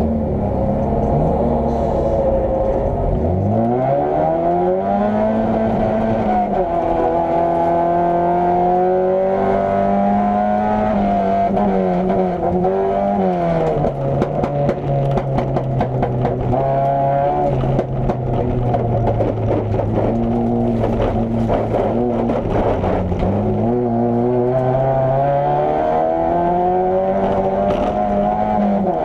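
Opel Corsa A GSi competition car's four-cylinder engine heard from inside the stripped cabin, revving up and dropping back with gear changes, then holding lower revs for a stretch before climbing again. A scatter of sharp knocks and rattles comes through the middle.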